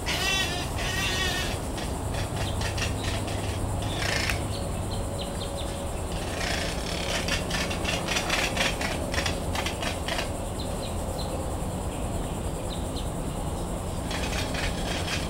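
Two birds calling back and forth from dense undergrowth: harsh, wavering, bleat-like calls broken up by runs of rapid clicks.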